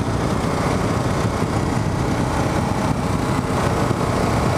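Kawasaki KLR 650's single-cylinder engine running steadily while the bike is ridden, heard as a continuous engine and riding noise.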